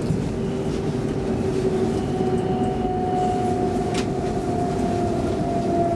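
X10 electric commuter train running, heard inside the carriage: a steady low rumble with a whine held on two steady pitches, the higher one coming in about two seconds in. A single sharp click sounds about four seconds in.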